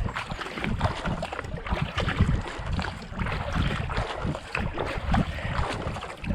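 Kayak paddle blades dipping and splashing in quick, steady strokes, with wind buffeting the microphone.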